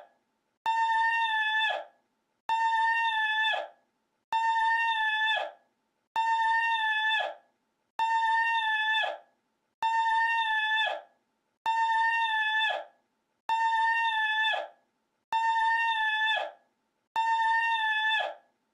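The same short, high, steady-pitched cry is looped over and over, ten times here. Each cry lasts a little over a second, dips slightly at its end, and is followed by a gap of well under a second.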